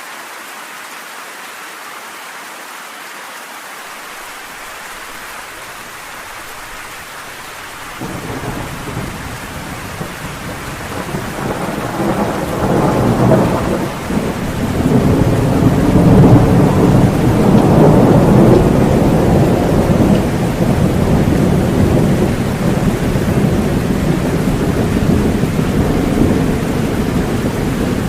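Steady rain with a long roll of thunder: the rumble starts about a third of the way in, builds to its loudest around the middle and keeps rolling to the end over the rain.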